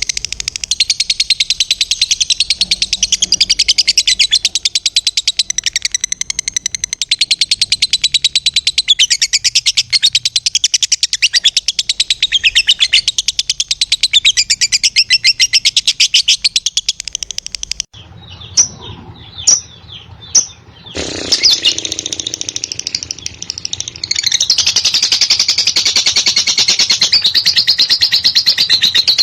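Lovebird's long 'ngekek' song: a fast, unbroken run of shrill chattering notes. About two-thirds of the way in it breaks off for a few separate chirps, then the rapid chatter starts up again and grows louder.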